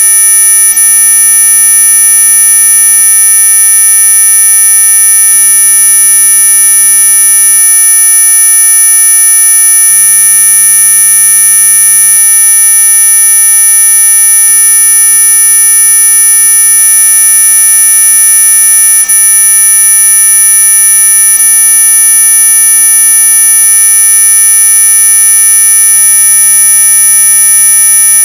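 Synthetic mosquito-repellent tone, played as a loud, steady electronic whine made of several held pitches. The strongest pitches are very high, with fainter lower tones beneath. It is sold as ultrasonic, but it lies within hearing.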